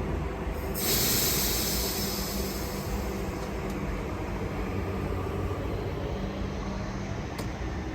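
A train running by: a steady low hum, with a hiss that comes in sharply about a second in and slowly fades.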